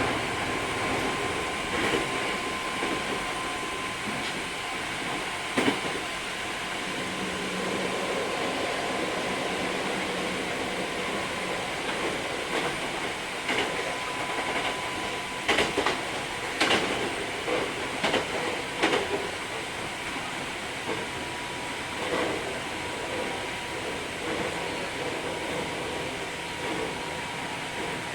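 Hankyu 3300 series electric train running, heard from inside the car: a steady rumble of wheels on rail with a thin, high, steady whine. Sharp clacks of the wheels over rail joints come now and then, several close together in the middle.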